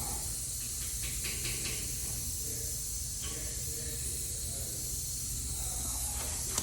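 Steady hiss over a low, steady hum, with a few faint clicks.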